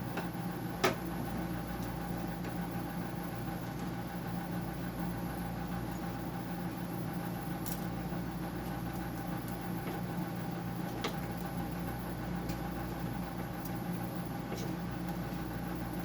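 Steady machine hum with a few faint clicks of parts being handled.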